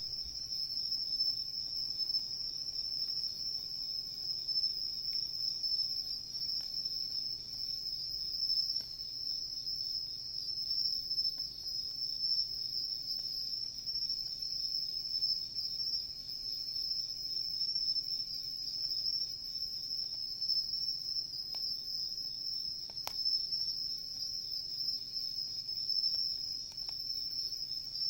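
A steady, high-pitched chorus of autumn insects singing without a break, with a few faint pops from a wood campfire.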